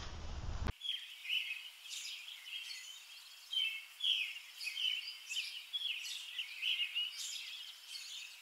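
Songbirds chirping outdoors in a quick run of short, high calls that begins about a second in, over a faint outdoor hiss.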